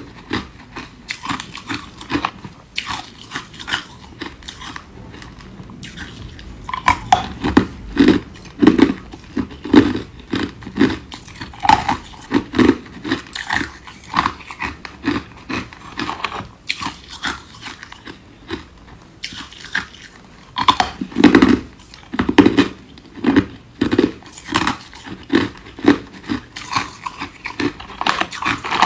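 Ice being bitten and chewed: a run of sharp cracks and crunches, with louder, rhythmic chewing strokes of about two a second setting in about a quarter of the way through and again past the middle.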